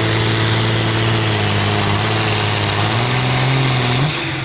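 Hot stock pulling tractor's diesel engine running hard at full throttle under load as it pulls the sled down the track. The engine note climbs slightly about three seconds in, then drops near the end.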